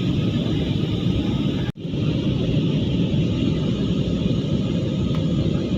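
Steady noise inside an airliner's cabin in flight: engines and rushing air, strongest in the low range. It drops out abruptly for a moment about two seconds in, then carries on.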